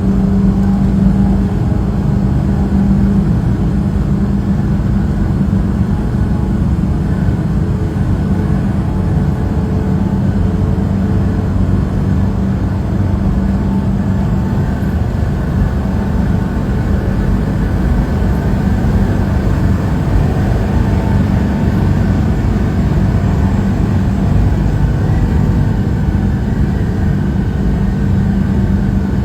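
Truck engine running steadily with road noise while driving, a constant low hum.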